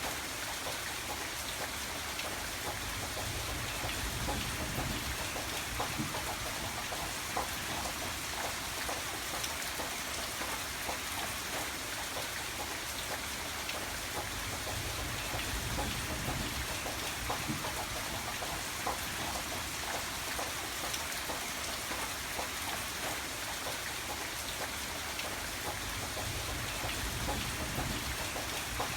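Steady heavy rain, with many separate drops ticking on a surface. A low rumble swells up and fades three times, roughly every ten seconds.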